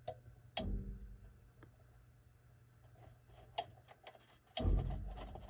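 Sharp clicks from the air handler's control-board fan relay as the G call is made, with the blower motor giving a brief low hum twice: it gets voltage for about a second and only bumps instead of starting. The technician takes this for a bad relay on the board.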